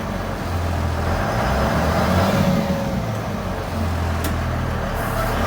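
Bus engine running hard under load, straining to pull the bus up a slight incline it had got stuck on.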